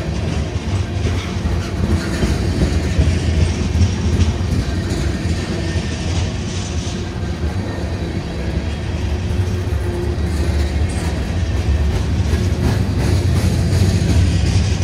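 Freight train rolling by: a steady low diesel rumble with faint, fairly even wheel clicks over rail joints.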